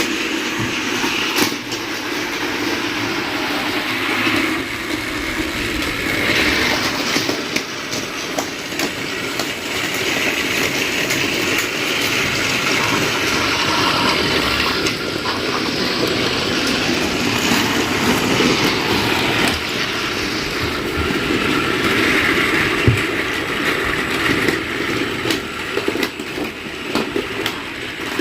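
Motorised Thomas and Friends toy trains running, a steady whir of their small electric motors and gears with scattered clicks.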